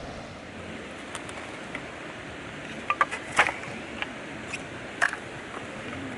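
A handful of short sharp clicks and light knocks, the strongest a little past halfway, over a steady rushing background.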